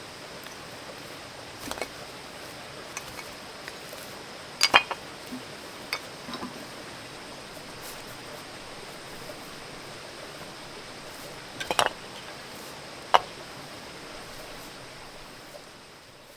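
About five sharp knocks and clinks of hard objects, a few seconds apart, over a steady hiss. The sound fades away at the end.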